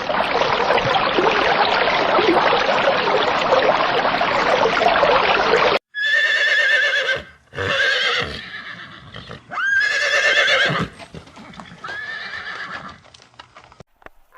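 A loud, steady rushing noise for about six seconds, then a horse whinnying four times, each call high and wavering, the last one fainter.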